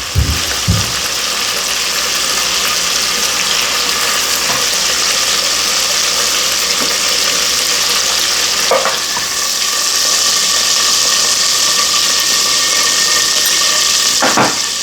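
Chicken pieces frying in butter and rosemary-infused oil in a pan, a steady loud sizzle. A thump sounds at the start and brief knocks come about 9 and 14 seconds in.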